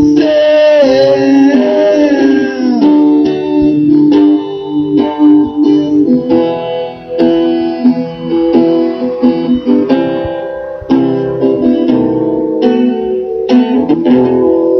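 Live band playing an instrumental guitar passage: plucked and strummed guitar chords with clear note attacks. Over the first three seconds a line bends up and down in pitch.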